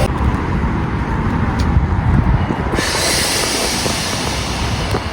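Train running past at close range: a steady low rumble with wheel-on-rail noise, and a hiss joining in a little under three seconds in.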